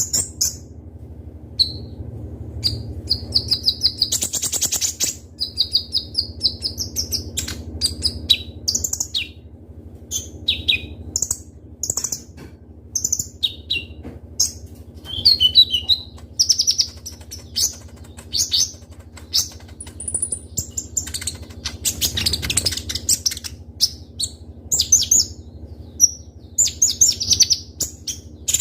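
Kolibri ninja (konin) sunbird singing: a busy run of sharp, high chirps and quick trills, separated by short gaps, over a faint steady low hum.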